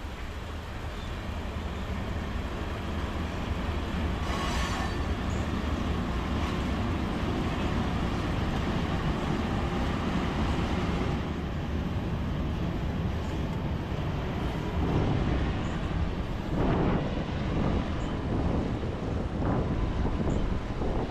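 A diesel-hauled KiwiRail train rumbling past, its steady low engine hum and wheel noise growing louder over the first few seconds and then holding.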